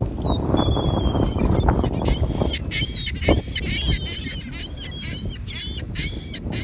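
A flock of gulls calling over and over in short, high, rapid cries, very close, over a dense low rumbling noise; the sound comes in abruptly at the start.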